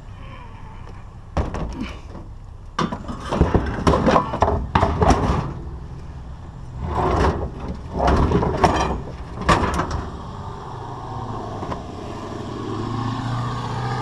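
Heavy metal scrap being heaved and dropped into a pickup's bed: a string of loud clanks and scrapes over several seconds. Near the end a car with a loud, droning exhaust comes up and keeps running.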